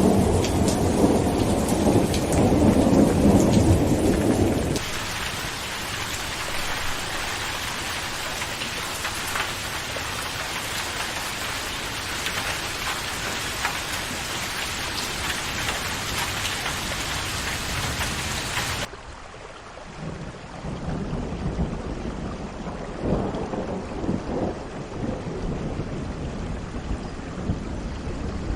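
Rainstorm recording: heavy rain with a rolling thunder rumble, cutting abruptly about five seconds in to a steady downpour hiss, then cutting again about two-thirds through to quieter rain with low rumbles of thunder.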